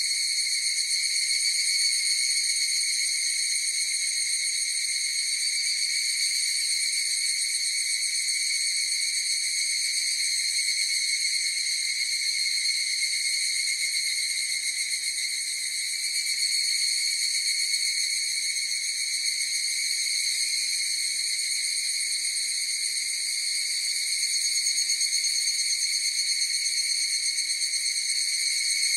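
Chorus of higurashi evening cicadas (Tanna japonensis) calling, a steady high-pitched ringing without breaks.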